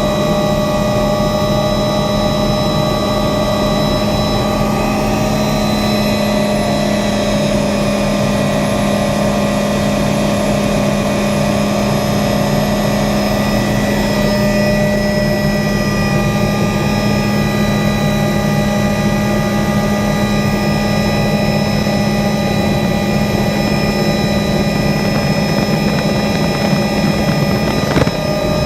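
Helicopter in flight: a steady engine and rotor drone with several steady whining tones, one of which dips slightly in pitch midway and then recovers. A brief sharp knock comes near the end.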